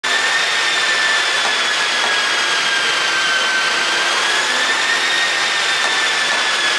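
MINI Countryman S engine running steadily: a loud rushing with a high whine that drifts slightly in pitch, and a few faint ticks.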